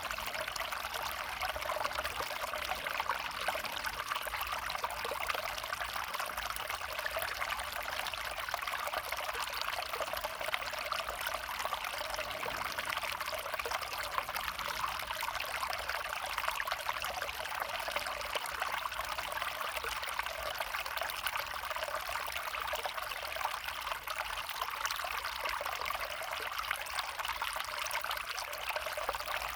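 Small woodland stream babbling and trickling steadily over stones.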